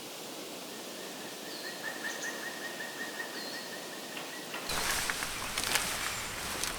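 Outdoor ambience with small birds calling: a rapid trilling series of notes and a few short high chirps. About two thirds of the way in, it cuts abruptly to louder steady rain with crackling drops.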